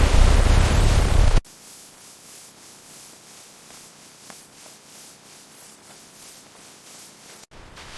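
Loud rushing water noise with a heavy low rumble, cutting off abruptly about a second and a half in to a faint steady hiss with a few light ticks. A moderate rushing noise returns at another sudden cut near the end.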